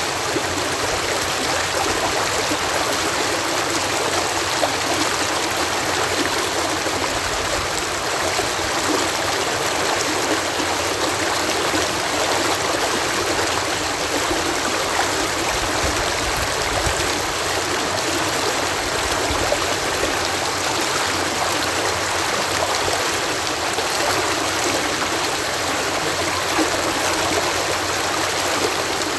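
Water spilling as a cascade at a canal lock: a steady, even rush of falling water that keeps on without change.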